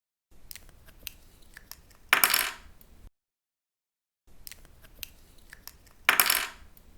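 Plastic pen cap handled with small clicks, then set down on a table with a short, louder clatter. This happens twice, with dead silence between the takes.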